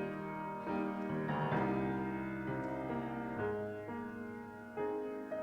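Piano playing slow, held chords.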